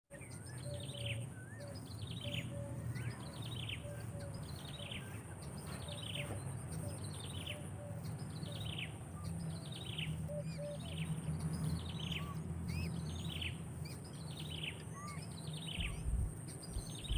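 A bird calling over and over, a short falling note a little more than once a second, with a faint lower note now and then and a steady high hiss behind.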